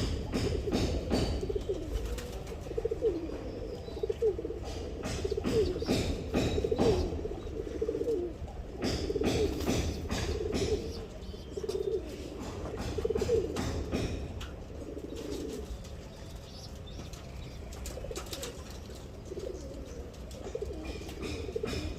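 Domestic pigeons cooing repeatedly in low, bending calls, with scattered sharp clicks and taps among them.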